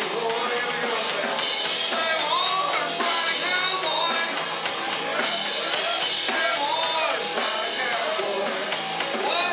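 Live country-rock band playing loud and steady, with a drum kit keeping the beat under melody lines that bend up and down in pitch.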